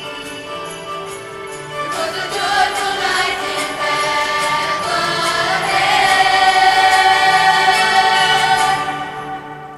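School choir singing with accompaniment and shaken jingle bells, swelling to a loud held final chord that dies away near the end.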